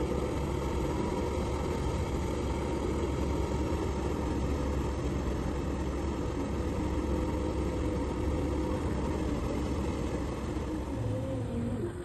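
74 HP engine of a Fat Truck 2.8 amphibious vehicle running steadily with a deep rumble as it drives through a swamp pond.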